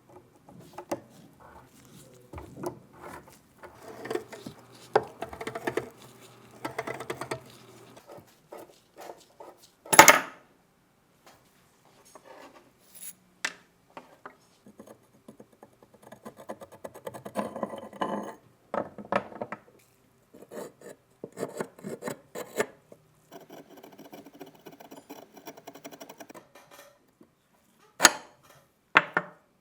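Scraping and rubbing on the rusty metal and wood parts of a Mosin-Nagant obrez being worked by hand, with scattered clinks and clicks. One sharp knock comes about ten seconds in, and two more near the end.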